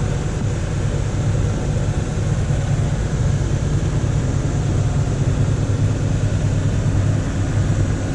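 Sailboat's auxiliary engine running steadily under way, a low drone under a steady hiss of wind and water.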